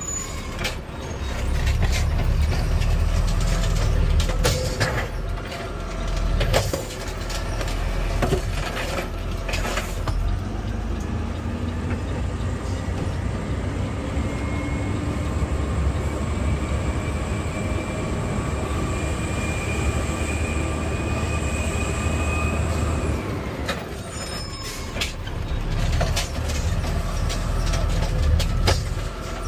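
Automated side-loader garbage truck heard from inside the cab: the diesel engine and hydraulics rumble steadily. There are knocks and clatter in the first ten seconds and again near the end, and a steady whine rises slightly in pitch through the middle.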